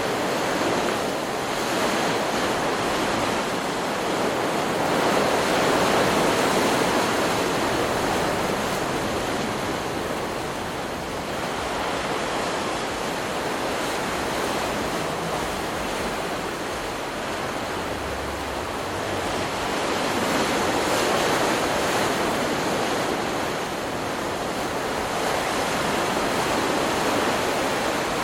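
Ocean surf: waves breaking in a continuous wash of noise that swells and eases slowly every several seconds.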